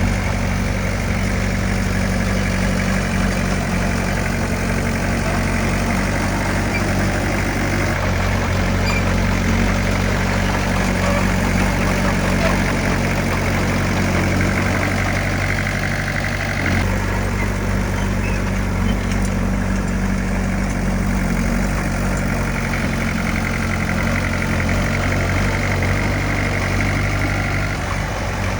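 Diesel engine of heavy earthmoving equipment running steadily, its note shifting slightly about two-thirds of the way through.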